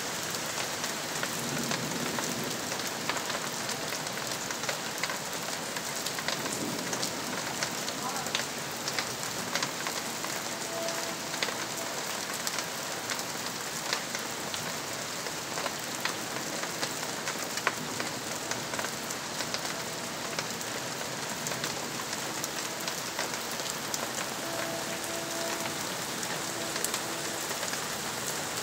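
Steady rain falling during a night thunderstorm, a constant hiss with many separate drop ticks through it.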